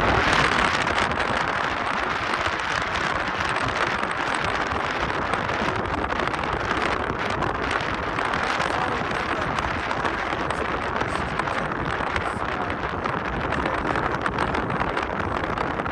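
Wind buffeting the microphone with road noise from a moving car: a steady rushing hiss over a low rumble.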